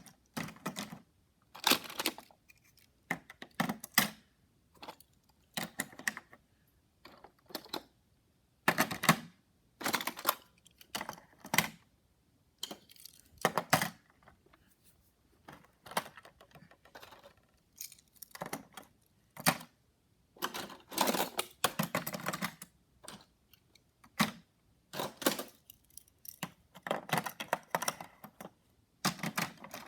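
Die-cast Hot Wheels toy cars being handled, clicking and clattering against each other and a hard surface in irregular bursts, with a few longer rattling stretches.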